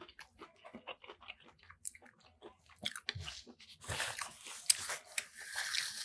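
Close-miked chewing of a mouthful of pepper shrimp fried rice: many small wet mouth clicks and crunches, growing louder and hissier from about four seconds in.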